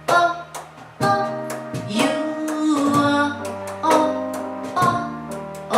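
Live acoustic song accompaniment: a plucked string instrument strummed in chords about once a second, each chord ringing out before the next. This is the instrumental ending of the song after the last sung line.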